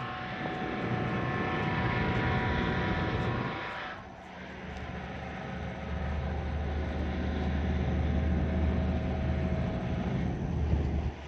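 Steady engine noise: a hum with a few steady tones, which changes abruptly about four seconds in to a heavier low rumble.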